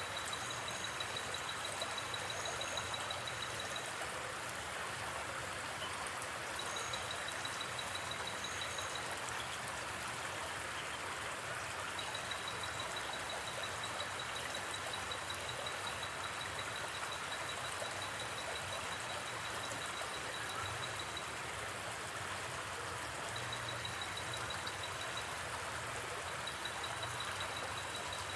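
A river flowing steadily with an even rushing wash of water. Over it, a high, fast-pulsing night insect trill, like a cricket's, comes and goes in spells several seconds long.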